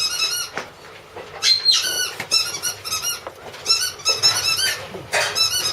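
German Shepherd puppy whining and squealing in repeated bursts of short, high-pitched cries.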